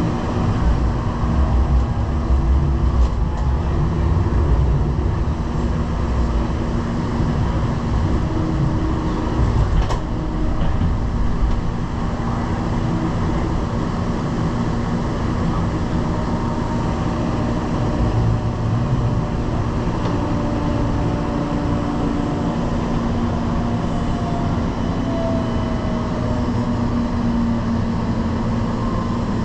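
Light-rail train running at speed, a steady rumble with humming motor tones and a faint rising whine near the end.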